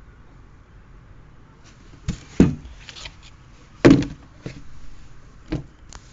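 Sneakers and their cardboard box being handled: a few sharp knocks and thumps after a quiet start, the two loudest about two and a half and four seconds in, with light rustling ticks between.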